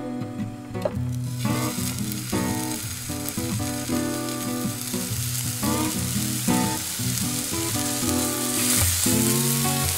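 Slices of Spam sizzling in a hot nonstick frying pan. The sizzle starts about a second in as the first slice goes down and grows louder near the end as more slices are added, over background music.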